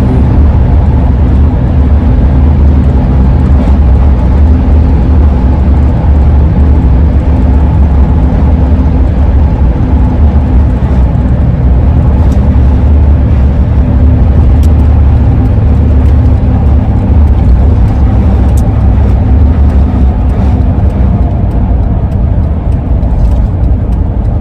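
Steady, loud road and engine rumble heard from inside a 2001 Ford E-350 van cruising on the road.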